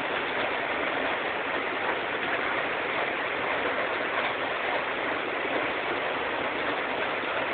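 Heavy hailstorm pelting down: a steady, dense hiss of hail and rain.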